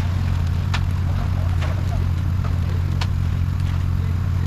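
Concrete truck's engine running steadily, a deep even drone, with a few sharp clicks or knocks over it.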